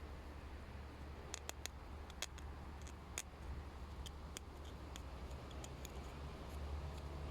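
Small fired clay pieces being handled, giving faint, scattered light clicks and ticks over a low steady hum.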